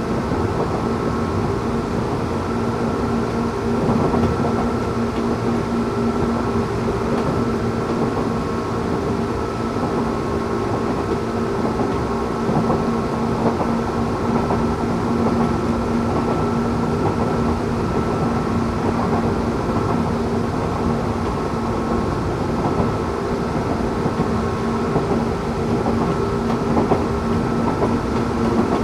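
Tokyu 8500 series electric train with Toyo-made traction motors running at steady speed: wheel and track rumble under a steady drone of a few held tones that neither rise nor fall.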